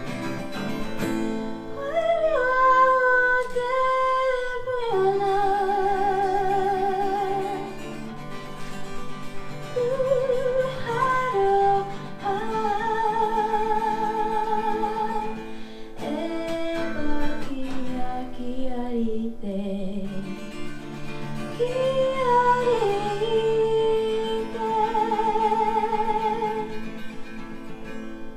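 A singer with acoustic guitar playing a song live: long held sung notes with vibrato over plucked guitar chords.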